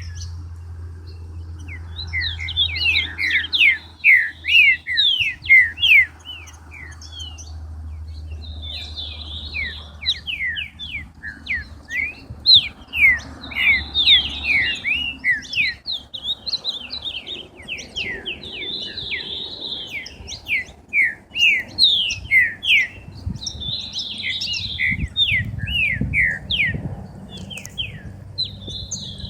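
Songbirds singing in repeated phrases of quick falling notes, each phrase a few seconds long with short pauses between them.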